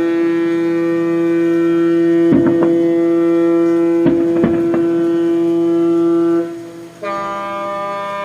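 Ships' horns sounding in a harbour: one long steady horn blast that stops about six and a half seconds in, and a horn at a different pitch that starts a moment later. A few sharp firework bangs go off over the first blast.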